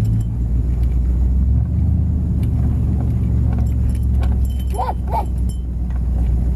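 Truck running, heard from inside the cab as a steady low engine and road rumble. About five seconds in, two short high calls sound over it.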